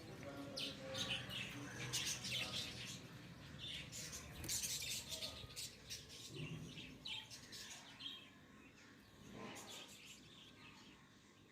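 A colony of lovebirds chirping: many short high chirps overlapping, busiest in the first half, then thinning out and growing fainter.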